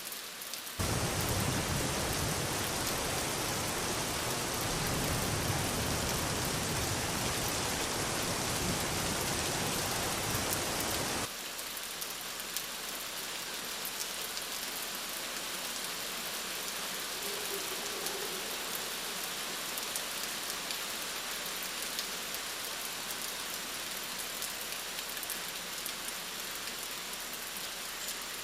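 Rain falling steadily, fuller and louder at first. About eleven seconds in it changes abruptly to a lighter, thinner rain with scattered drop ticks.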